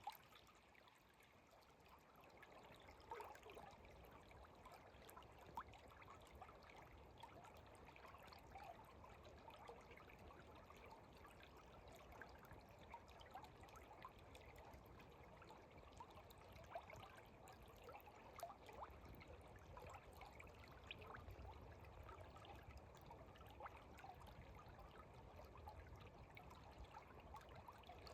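Faint flowing water of the upper Geum River running over stones, a steady rush dotted with many small gurgles and plops.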